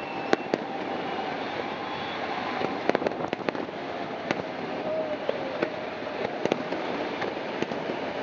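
Fireworks display going off: a steady din with many sharp bangs scattered through it, thickest a little after three seconds in and again around six and a half seconds.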